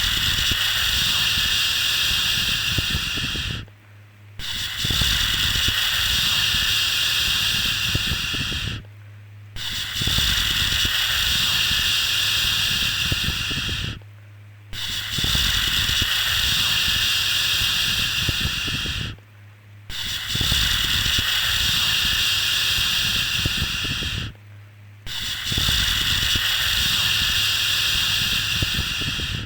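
A repeated 'shhh' shushing sound for soothing a baby to sleep: six long shushes of about four and a half seconds each, broken by brief pauses of under a second, with a faint low hum underneath throughout.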